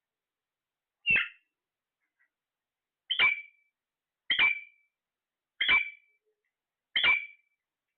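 Parrot giving five short, sharp calls a second or so apart, with silence between them.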